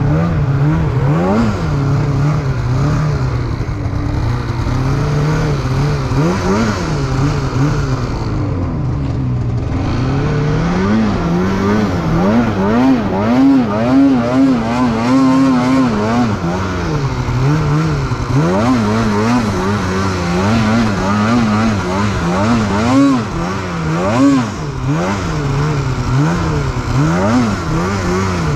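Polaris 9R two-stroke snowmobile engine being worked hard, its pitch swelling up and down with repeated throttle blips, dropping lower briefly around a third of the way in before climbing again in quick swells.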